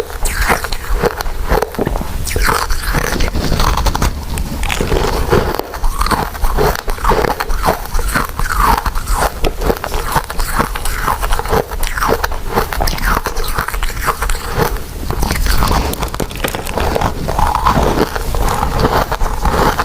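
Loud, continuous mouth sounds of biting and chewing soft, chewy glutinous rice desserts, a dense run of short chewing sounds with no real pauses.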